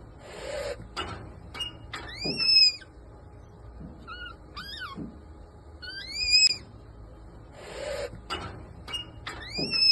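An animal's short, high, squeaky calls, each rising and then falling in pitch, mixed with breathy hisses and clicks; the same run of sounds comes twice.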